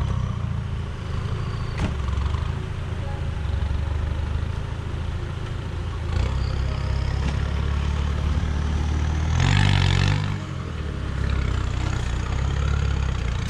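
Land Rover engine running under load as the 4x4 climbs out of a muddy track and pulls away, a steady low rumble, with a brief louder rush of noise about nine and a half seconds in.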